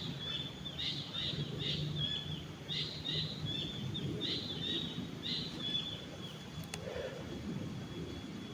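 A bird calling in a quick series of short, high chirps, about three a second, which stop about six seconds in, over a steady low rushing background; a thin steady high tone carries on after the chirping ends.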